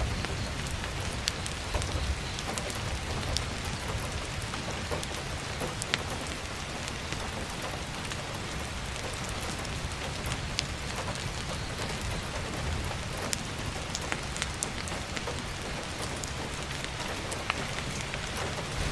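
Heavy rain falling steadily, an even hiss with a low rumble underneath, dotted with scattered sharp crackles and ticks.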